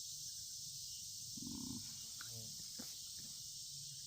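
A steady, high-pitched chorus of insects such as crickets. About a second and a half in there is a brief low hum, followed by a faint mutter and a few soft knocks.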